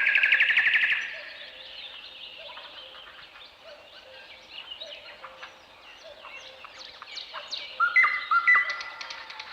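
Wild birds calling and singing. A loud, fast trill ends about a second in, followed by a busy mix of short chirps and calls, and then a few loud, clear whistled notes near the end.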